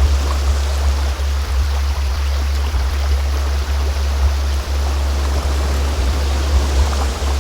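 Steady low-pitched sound-healing drone tone, with a soft, even rushing noise like flowing water layered over it.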